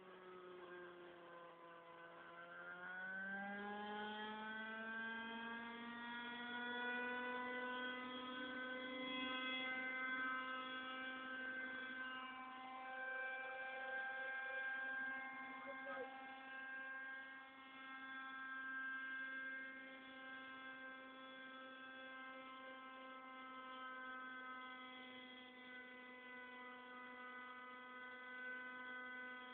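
Remote-control helicopter's motor and rotor whine, dipping in pitch, then rising about three seconds in and holding a steady pitch.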